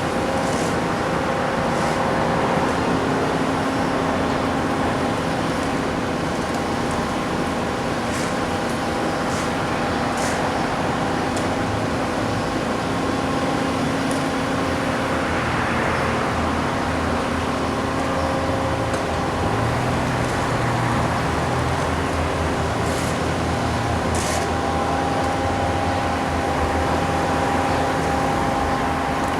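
Bobcat skid steers working with road milling and sweeping attachments, a continuous engine and hydraulic drone with a few steady tones in it.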